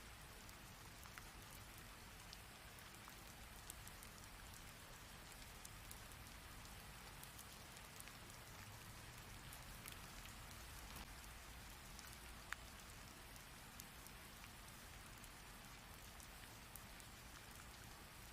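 Heavy rain falling steadily, an even hiss with scattered sharp drop impacts; one drop about twelve seconds in is louder than the rest.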